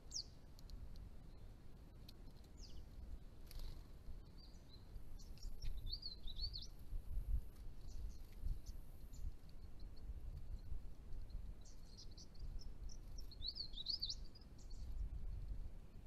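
Small birds calling: short, quick high chirps, single ones early and two rapid clusters, one about a third of the way in and one near the end, over a steady low background rumble.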